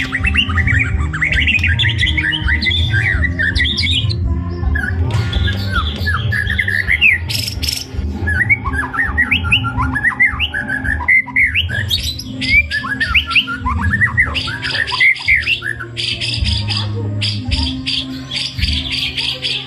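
White-rumped shama singing a long, varied song of quick rising whistles and squeaky phrases, the kind of song full of mimicked calls of other birds. Near the end it breaks into a fast rattle of repeated notes. A steady low hum or music bed runs under it.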